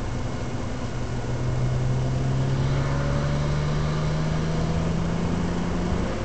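BMW 135i's N54 twin-turbo inline-six pulling under steady acceleration, its note rising slowly in pitch for about five seconds, over tyre and road noise heard from inside the cabin.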